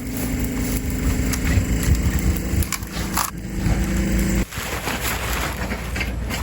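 A machine engine running steadily, with a few sharp cracks of breaking wood or debris about three seconds in; the engine note cuts off abruptly about four and a half seconds in.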